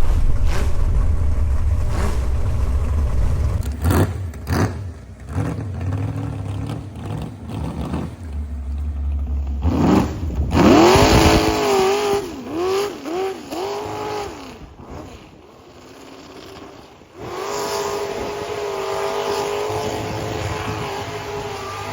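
Vehicle engine revving: a low rumble at first, then several quick rises and falls in pitch about halfway in, and a steadier high-revving run near the end.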